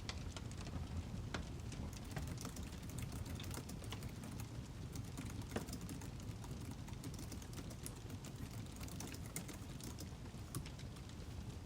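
Wood fire crackling: irregular pops and snaps over a steady low rumble, with one louder snap about halfway through.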